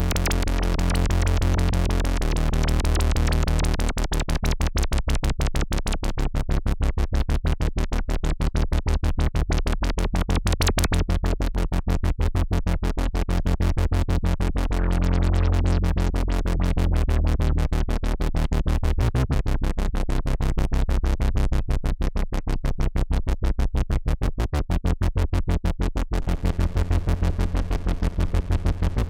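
Moog Messenger analog monophonic synthesizer playing a fast, evenly repeating sequence of short notes over a heavy low bass. The tone is fuller and sustained for the first few seconds, then turns into the rapid pulsing pattern.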